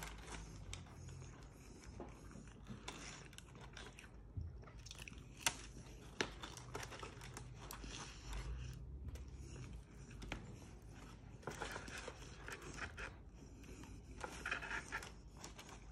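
Quiet close-up chewing of Cajun fries, with scattered small crunches and clicks, mixed with the crinkle of the paper liner and cardboard takeout box as fingers pick fries out.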